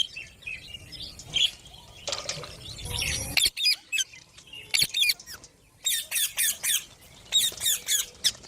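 Green parrots squawking: clusters of short, shrill calls, several in quick succession at a time, with a brief burst of rustling noise about two seconds in that stops abruptly.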